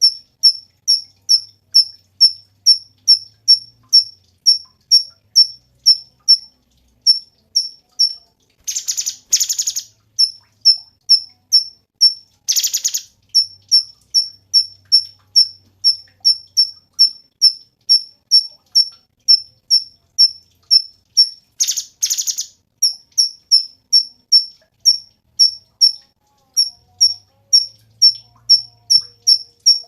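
Cucak cungkok songbird calling a fast, steady string of short, high, identical notes, about two a second. Three times the string is broken by a brief harsh rattling burst.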